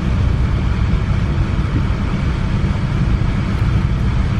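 Steady low rumble of a moving Metrolink commuter train, heard from on board.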